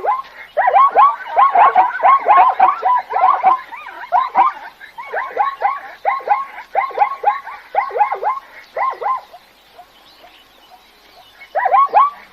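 Zebra calling in quick runs of short, barking yelps, several a second. The calls stop for about two seconds near the end, then start again.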